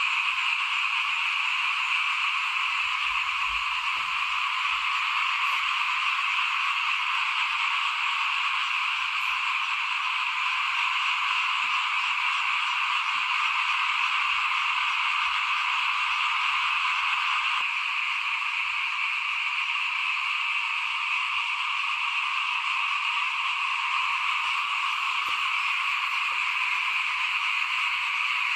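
A dense chorus of small frogs (khiat) calling, many voices overlapping into a continuous high-pitched croaking that eases slightly about two-thirds of the way through.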